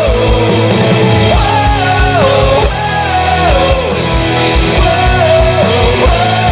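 Live rock band playing with a steady kick-drum beat and bass, while a voice holds long 'whoa' notes that fall in pitch at the end of each phrase.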